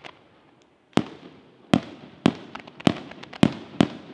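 Aerial firework shells bursting in a rapid series of sharp bangs, about six in three seconds after a quieter first second, each followed by a fading echo.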